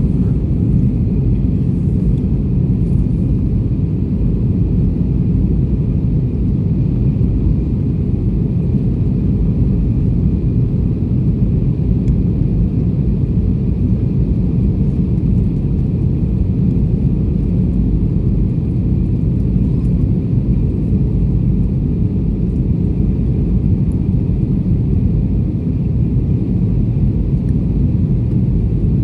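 Airbus A320 jet noise: a steady low rumble with a faint high whine above it, holding even with no rise or fall.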